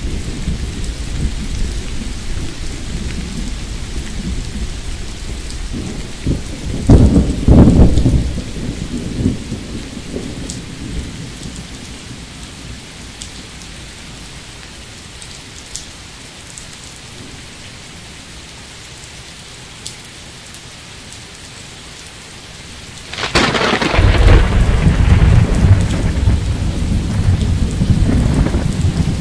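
Thunderstorm with steady rain hissing throughout. Thunder rumbles at first, breaks into a loud clap about seven seconds in that rolls away, and after a quieter stretch of rain a sharp crack about twenty-three seconds in turns into heavy rolling rumble.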